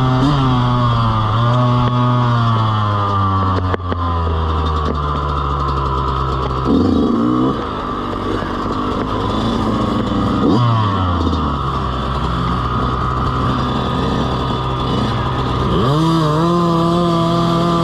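Dirt bike engine running while being ridden, its pitch rising and falling with the throttle: easing off at first, a quick rev about seven seconds in, dropping again around ten seconds, and climbing hard near the end.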